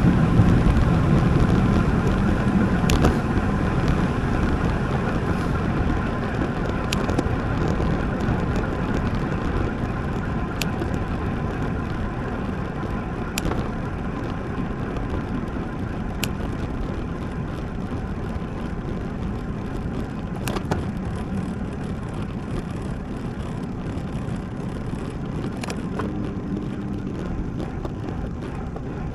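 Wind rush and road noise from riding a road bike, a steady noise that slowly grows quieter, with a few sharp clicks scattered through it.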